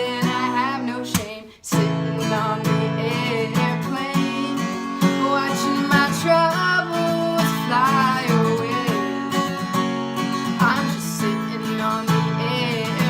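Acoustic guitar being strummed, with a woman's voice singing over it. The sound drops out briefly about a second and a half in, then the strumming carries on.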